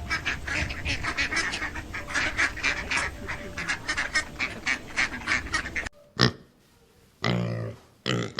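A flock of waterfowl calling, many rapid overlapping honks and quacks over about six seconds, then stopping suddenly. A few separate single calls follow near the end.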